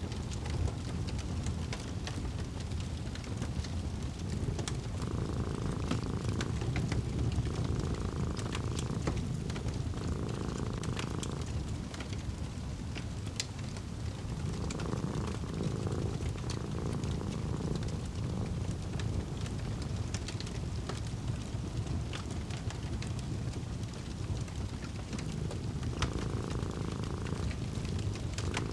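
A cat purring close up in slow in-and-out cycles, over a wood fire crackling in a fireplace with scattered small pops.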